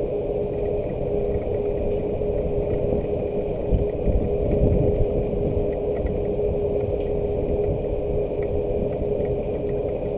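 Steady low rumble with a constant mechanical hum, like a machine or engine running, under faint scattered ticks that fit light rain. The rumble swells briefly about four seconds in.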